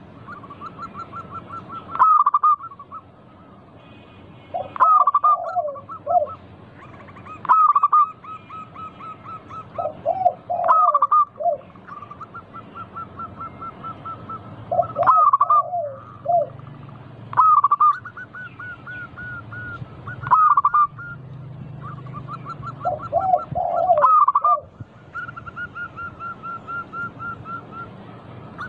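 Zebra dove (perkutut) singing: a song phrase of cooing notes repeats every two to three seconds, with quick runs of short notes in between.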